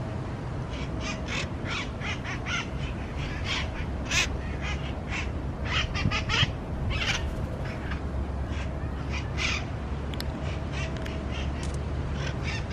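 A parrot giving many short, harsh calls, some singly and some in quick runs, with louder ones around four and six seconds in. A steady low hum runs underneath.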